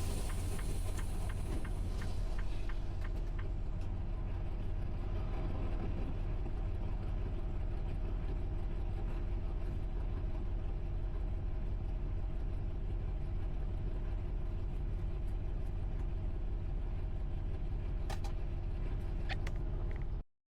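Tractor-trailer's engine running with a steady low rumble and hum, and light regular ticks over the first few seconds.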